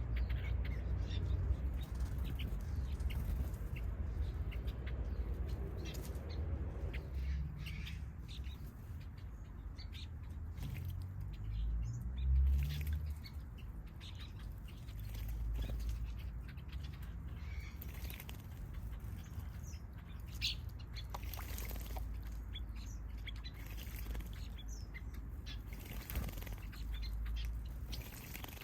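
Small aviary birds (finches and softbills) fluttering their wings and chirping while bathing in a bird bath: many short, scattered high chirps and wing flicks over a steady low rumble.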